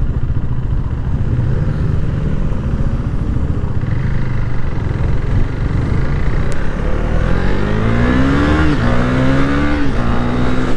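Motorcycle engine heard from the rider's position, running at a steady cruise and then accelerating about seven seconds in. The pitch climbs, drops at a gear change, climbs again and drops once more near the end, with wind noise on the microphone underneath.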